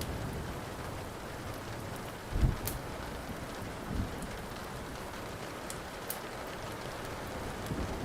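Steady rain with a few sharp crackles from a wood fire, and a dull low thump about two and a half seconds in, with a softer one a second and a half later.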